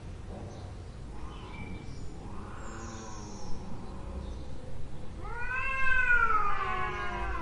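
Domestic cat meowing: faint calls in the first half, then from about five seconds in a loud, long, drawn-out meow that rises and then slowly falls in pitch.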